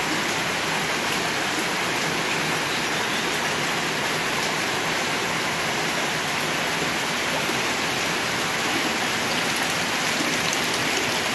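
Heavy rain pouring down steadily onto wet ground and puddles, an even, unbroken hiss.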